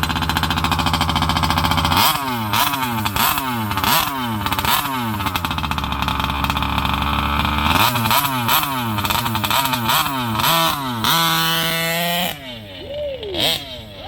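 70cc two-stroke engine of a large-scale RC car, revving hard in repeated short throttle bursts. Between the bursts the pitch falls back, holding steady for a few seconds around the middle. The revs drop off near the end, then pick up again.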